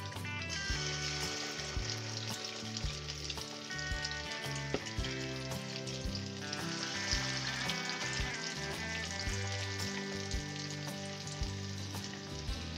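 Batter-coated chicken wings sizzling in hot oil in a pan, with more wings lowered in one by one. There is a steady hiss with scattered crackles and pops.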